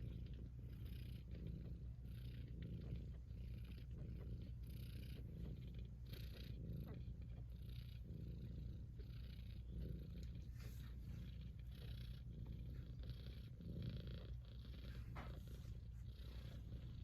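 Persian cat purring, a steady low rumble pulsing about once a second.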